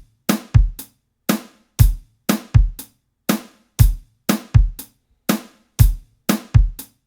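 A looped two-bar groove of sampled acoustic drum-kit hits: kick, snare and hi-hat. Each hit stops short with silence between, its reverb tail trimmed off.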